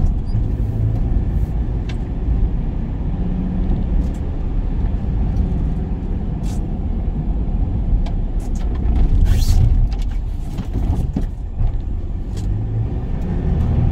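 Work van being driven: steady engine and road rumble heard from inside the cab, with a few brief hisses, the longest about nine seconds in.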